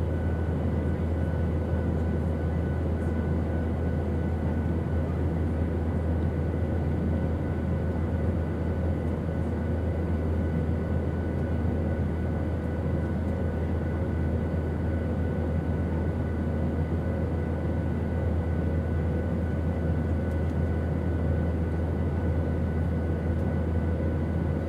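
Steady, unchanging drone of an airplane's engines: a deep rumble with faint steady whining tones above it.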